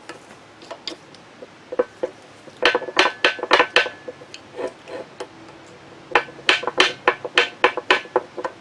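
Quick metal-on-metal hammer taps in two bursts, about four or five blows a second, with a faint ring from the struck part, knocking a part loose from the drill grinder motor's shaft.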